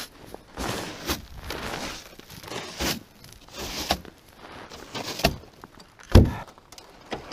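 Footsteps and handling knocks, irregular, with one heavy thump about six seconds in.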